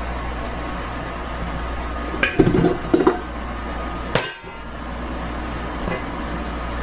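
Metal kitchen clinks and knocks, as of a stand mixer's paddle attachment knocking against the mixing bowl while dough is worked off it: three knocks, about 2, 3 and 4 seconds in. A steady low hum sits underneath.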